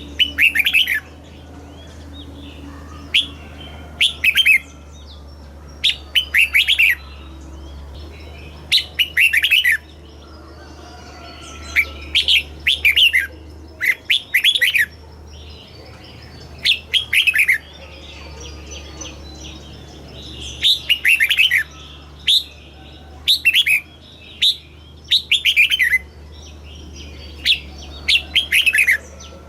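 Red-whiskered bulbul singing short, lively warbled phrases, one every second or two, over a low steady hum. It is the kind of song played to caged bulbuls to excite or teach them.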